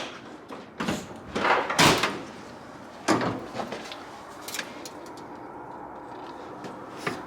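Several sharp knocks and clunks, like a door or panel being handled, the loudest in the first two seconds and a few fainter ones later, over a steady low background noise.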